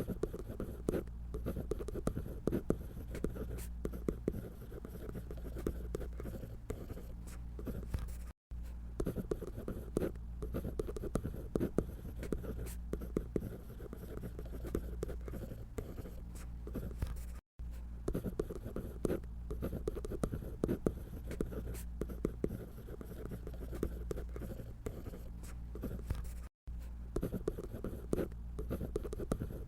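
Scratching of a drawing tool on paper as a figure is drawn: quick, uneven strokes, with three silent breaks of an instant each.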